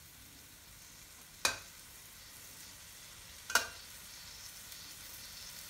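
Chopped tomatoes sizzling steadily in a wok as they are stir-fried to draw out their juice, with a metal spatula knocking against the wok twice.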